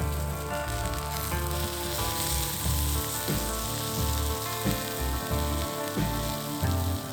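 Oil sizzling in a hot iron frying pan during seasoning, a steady hiss that grows denser about a second in. Background music with a pulsing bass plays underneath.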